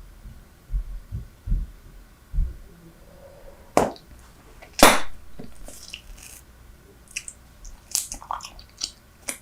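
Close-miked chewing of Super Bubble bubble gum: wet smacks and sticky clicks from the mouth. A few soft low thumps come first, then two loud sharp pops about four and five seconds in.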